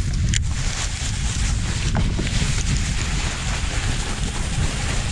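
Wind buffeting the microphone, a steady low rumble with a hiss over it and a couple of faint clicks.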